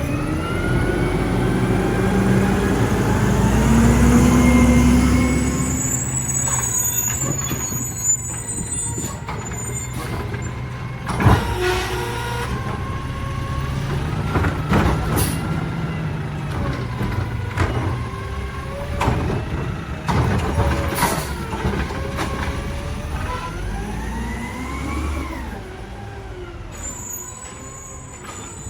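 Mack LR garbage truck running, its engine revving up and down with gliding whines, broken by several sharp clanks.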